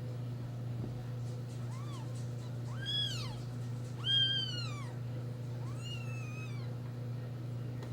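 Newborn kittens mewing: four short, high-pitched cries, each rising and then falling in pitch, the first one faint. A steady low hum runs underneath.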